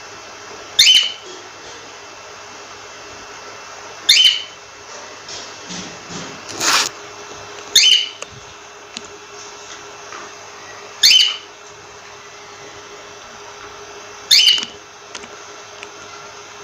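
Cockatiel giving short, sharp calls that sweep down in pitch, five of them at about three-second intervals, with a few softer calls between. A steady low hum runs underneath.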